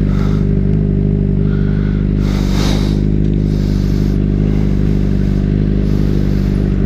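Motorcycle engine idling steadily, with a brief rustling hiss about two seconds in.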